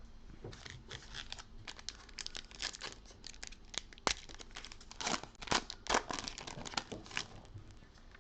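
A trading card pack's foil wrapper being torn open and crinkled by hand, a run of crackling tears and crinkles over several seconds.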